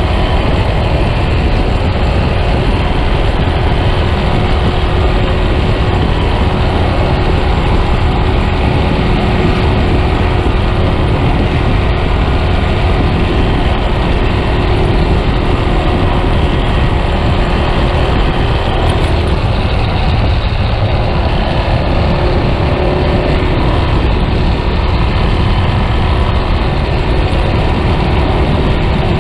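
Yamaha Scorpio's single-cylinder four-stroke engine running steadily while the motorcycle rides along, with a dense rumble under it. The engine's steady note shifts about two-thirds of the way through.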